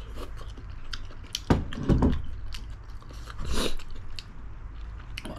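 Close-up eating sounds: a person chewing and biting into spicy braised chicken, with many small wet clicks and louder bites about one and a half, two and three and a half seconds in.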